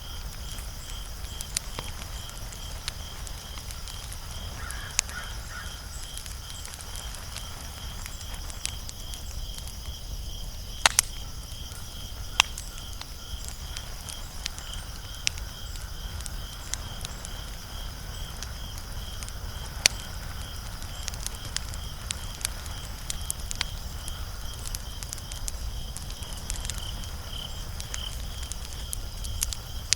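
Wood fire crackling steadily, with scattered sharp pops; the loudest pops come about eleven and twelve seconds in and near twenty seconds.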